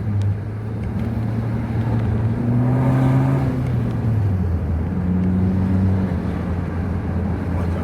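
Turbocharged four-cylinder engine and exhaust of a 2012 Acura RDX, running with the rear muffler deleted and a Magnaflow glasspack resonator, heard under acceleration. The engine note climbs, drops in pitch about four seconds in, then runs on steady.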